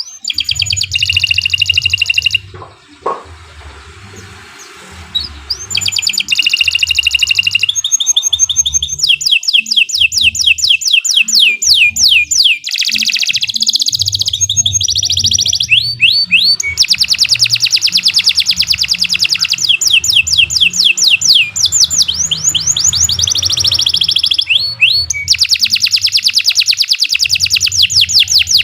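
Domestic canary singing long rapid trills, each a fast run of the same high falling note repeated many times, switching to a new note type every few seconds. There is a short lull a few seconds in before the song resumes.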